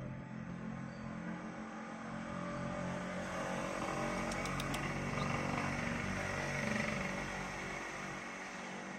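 A motor vehicle, likely a motorcycle, passing: a steady engine hum that grows louder to a peak about two-thirds of the way in, then eases off.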